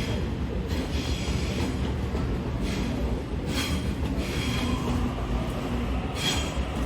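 Electric suburban train running along the track with a steady low rumble, and short high wheel squeals several times.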